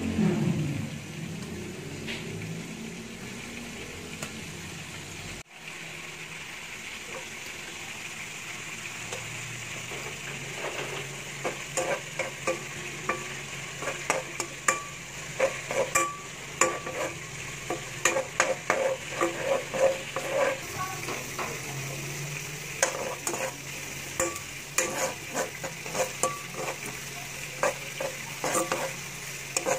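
Sliced onion and other aromatics sizzling in oil in a granite-coated nonstick wok. A metal spoon scrapes and clinks against the pan as they are stirred, with the clinks coming thick and fast from about ten seconds in.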